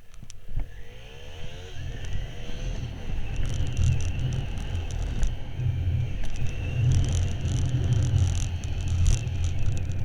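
Motorcycle engine pulling away, its pitch rising over the first couple of seconds, then running steadily at speed with a heavy low rumble.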